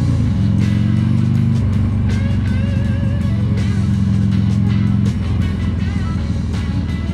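Motorcycle engine under way: the revs climb, hold steady, then drop off about five seconds in. Background music plays over it.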